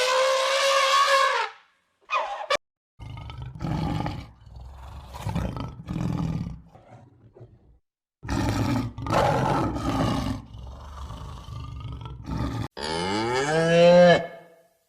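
A run of separate animal calls: a long high-pitched call, then several low, rough roars, and near the end a call that falls in pitch.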